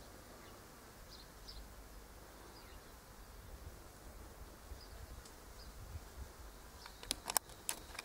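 Faint, short, high bird chirps scattered through a low rumble, with a quick run of sharp clicks about seven seconds in.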